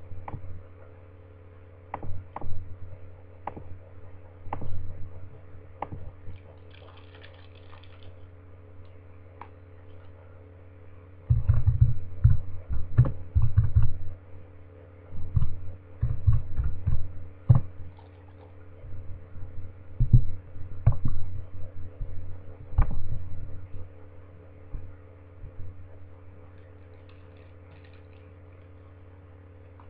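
Close chewing and mouth noises from eating a Kit Kat Chunky Caramel bar, heard as irregular clusters of low thuds and clicks over a steady electrical hum. A brief crinkle of the foil wrapper comes near the end.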